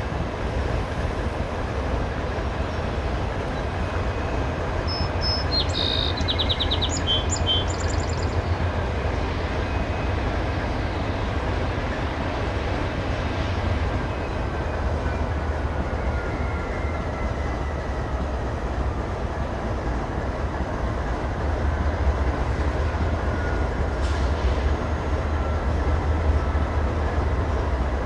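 Norfolk Southern diesel locomotives leading a stack train, approaching from a distance with a steady low engine rumble and train noise. A bird chirps briefly, about five to eight seconds in.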